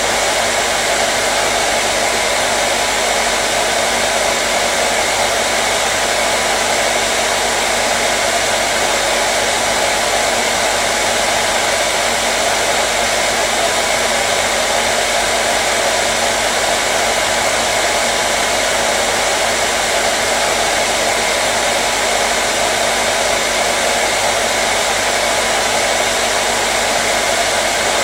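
Hair dryer running steadily: an even, unchanging blowing noise with a faint motor hum underneath.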